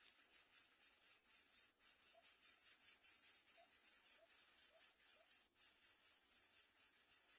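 High-pitched insect buzzing, such as cicadas or crickets, pulsing several times a second with a few short breaks.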